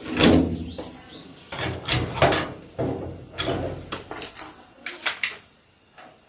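An irregular series of knocks and clatters of hard objects being handled: a loud one at the start, then clusters of sharper strikes with short ringing tails, stopping about a second before the end.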